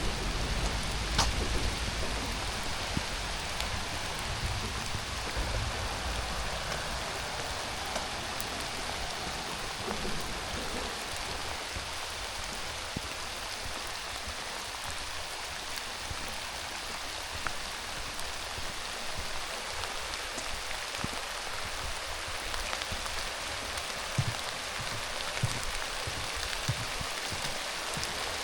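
Steady rain falling, with a few single drops ticking close by, and a low rumble in the first few seconds.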